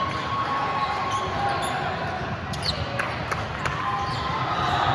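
Sneakers squeaking on a gym floor and a ball being hit or bouncing a few times, over the steady din of a large hall.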